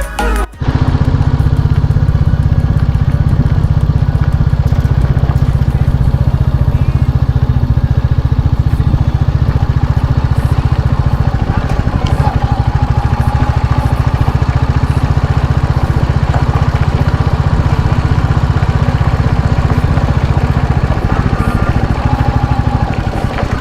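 Royal Enfield motorcycle engine running steadily, with a fast, even exhaust pulse. It starts about half a second in, as music cuts off.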